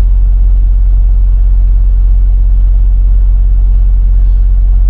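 Semi truck's diesel engine and road noise while driving: a steady, loud low drone with no change in pitch.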